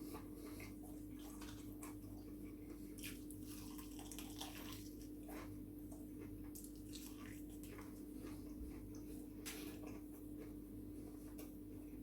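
Close-up eating sounds: a person chewing fried chicken with soft wet mouth clicks and smacks at irregular intervals. A steady low hum runs underneath.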